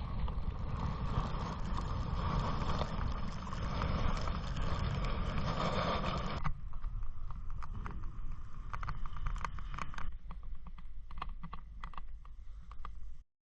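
Kayak paddling on a river: a steady rush of splashing water for the first half. After a sudden change about six and a half seconds in, scattered drips and light knocks from the paddle are heard over a low rumble.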